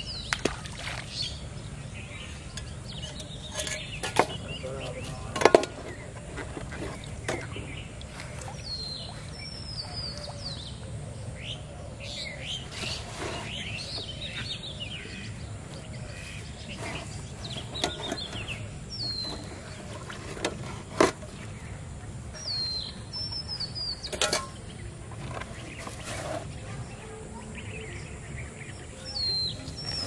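Birds calling: a short falling whistle repeats every few seconds among other chirps, over a steady low background rumble. A few sharp clicks or knocks cut through, the loudest about five seconds in.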